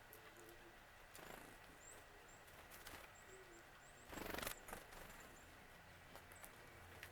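Faint wild bird calls: a string of short, very high-pitched notes, with a brief burst of noise about four seconds in.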